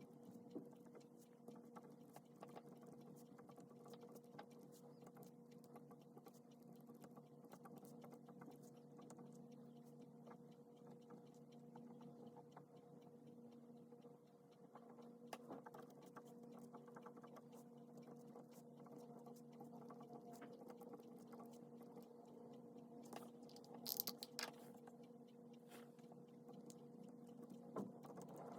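Faint scratching and small taps of a pen writing on paper during hand copying, over a steady low hum, with a brief cluster of sharper clicks near the end.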